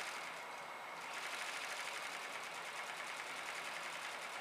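1945 Merrow A-3DW overlock sewing machine stitching an emblem edge on a patch: a fast, even mechanical stitching rhythm. It is softer at first and picks up steadily about a second in.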